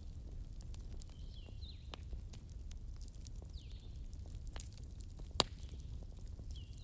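Wood campfire crackling over a low steady rumble, with scattered sharp pops and one loud pop about two-thirds of the way in. Small birds chirp a few times in the background.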